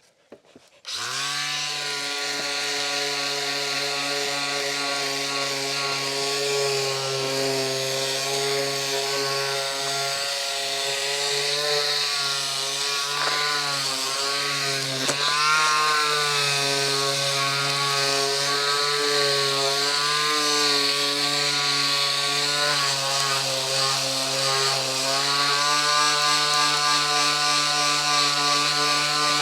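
An electric power tool's motor running steadily after starting abruptly about a second in, its pitch dipping briefly a few times midway as it is pressed to work.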